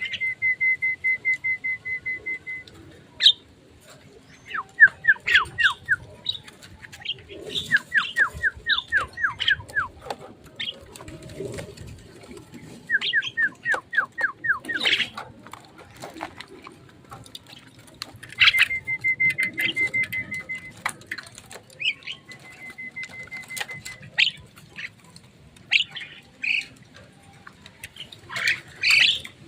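Caged birds calling: fast runs of short notes all at one pitch, several quick series of falling chirps, and sharp clicks and wing flaps in between.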